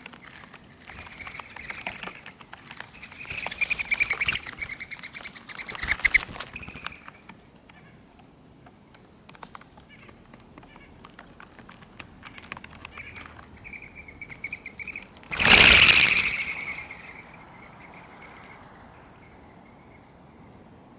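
Small songbirds at a backyard seed feeder chirping and twittering in quick, high bouts. Roughly three-quarters of the way through, one loud, sudden rush of sound lasts a second or two and then fades.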